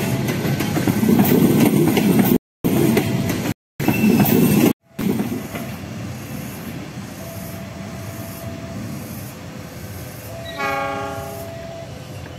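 Passenger train coaches rumbling loudly past on the rails close by, broken by short cuts. After a cut about five seconds in, a quieter, more distant train sound with a faint steady tone, and a short train horn blast about two-thirds of the way through.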